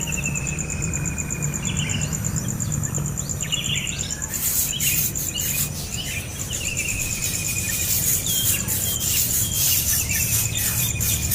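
Young bird begging with long, slightly falling calls, repeated one after another. A pulsing insect trill runs high in the background for the first few seconds. From about four seconds in, it gives way to a crackle of short clicks and rustles.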